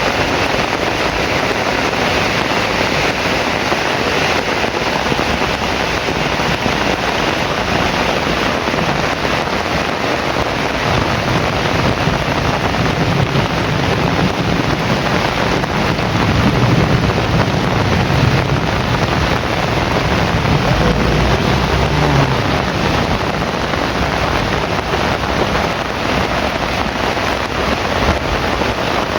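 Heavy rain pouring steadily, with a low rumble of thunder building about a third of the way in and dying away after about two-thirds.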